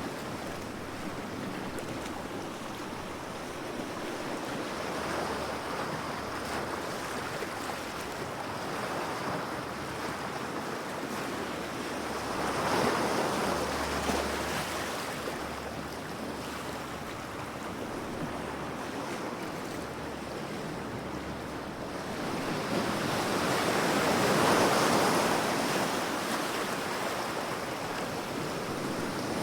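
Ocean waves washing onto the shore in a steady surf, with two larger waves swelling and breaking, one about halfway through and a louder one near the end.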